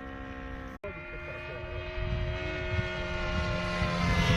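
Glow engine of a radio-controlled model aircraft running with its propeller, a steady high engine whine that cuts out briefly about a second in and then grows louder.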